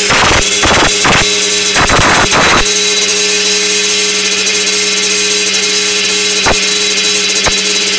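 Honda MT8 moped's two-stroke engine, bored out with a 113cc Malossi kit, running hard at high, steady revs on a dyno. Its pitch holds level, with a few brief breaks in the sound in the first couple of seconds.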